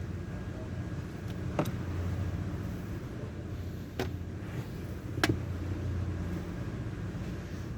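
A steady low mechanical hum with three short sharp clicks, the last two about a second apart.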